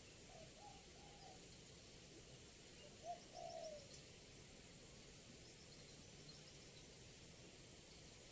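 Spotted dove cooing faintly: two short low coo phrases, one near the start and a slightly louder one about three seconds in, over a steady hiss, with a few faint high chirps.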